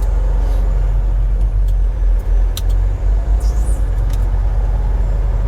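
Steady low engine and road rumble inside a semi-truck's cab while driving, with a couple of sharp clicks.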